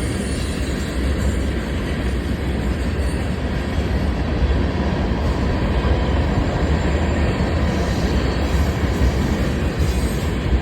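Train running past at speed, a loud steady rumble.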